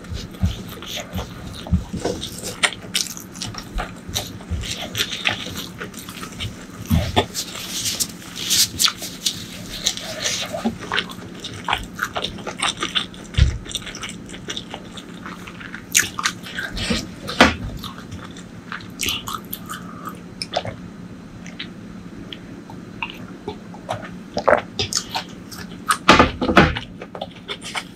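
Close-miked eating sounds: wet chewing and mouth smacks from a mouthful of curry and rice, with many irregular sharp clicks.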